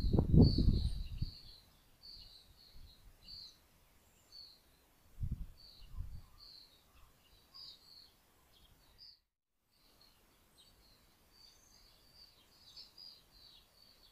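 Small garden birds chirping repeatedly, with loud low rumbling bursts over the first second or so and again about five seconds in. The sound drops out completely for about half a second near nine seconds.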